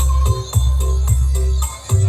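Loud music played through a large subwoofer sound system, with heavy sustained bass notes, a quick regular shaker-like percussion beat and a simple melody on top.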